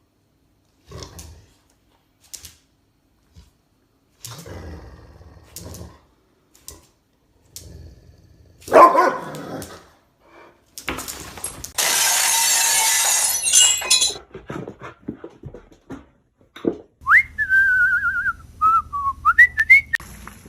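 A dog barking and whimpering in short bouts, with a loud rushing noise lasting about two seconds midway and a high, wavering whine near the end.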